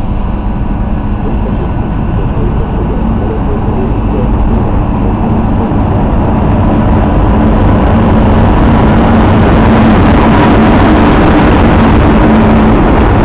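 Electric locomotive hauling passenger coaches into a station and rolling past close by: wheels rumbling on the rails under a steady hum. It grows louder as the locomotive and then the coaches go by.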